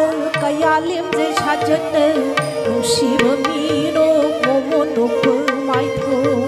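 Live Manipuri classical dance music: a hand drum beats a steady pattern of sharp strokes and low tones under a held drone, while a wavering melody from voice, violin or flute runs above.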